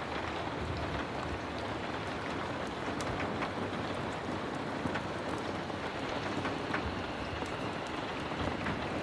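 Heavy rain falling steadily, with scattered sharp ticks through it.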